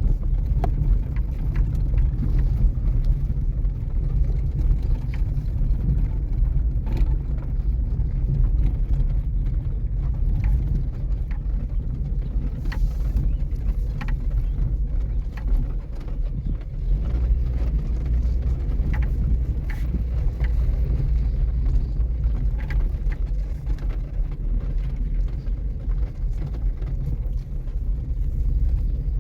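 Steady low rumble of a vehicle on the move, road and wind noise, with scattered small clicks and rattles.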